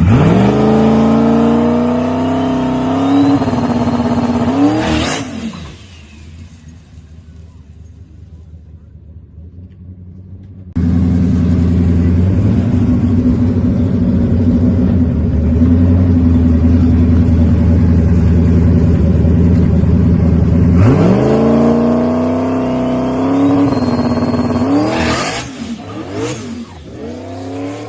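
Drag race car launching and accelerating hard, its engine pitch climbing and stepping at a gear change, then fading away about five seconds in. After a sudden jump to a steady engine drone, a second car launches the same way about twenty seconds later and fades off.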